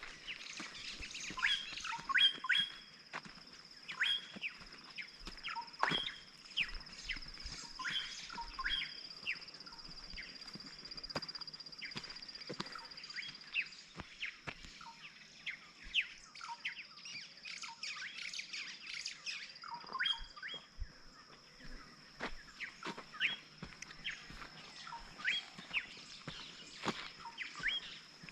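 Several wild birds chirping and calling in short, repeated notes, over a steady high-pitched whine.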